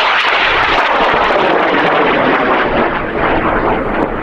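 High-power rocket motor burning after liftoff, heard from a distance: a loud, steady rushing noise full of crackling that eases off slightly near the end.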